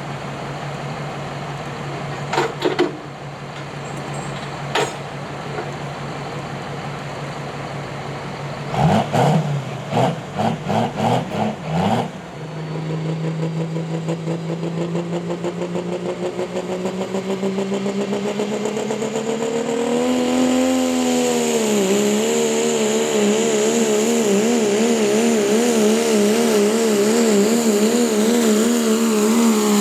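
Engine of a pulling truck or tractor idling, then blipped in about five quick revs. It is then held on the throttle with its pitch climbing steadily as it pulls. Near the end the pitch dips briefly, then wavers up and down while it stays under load.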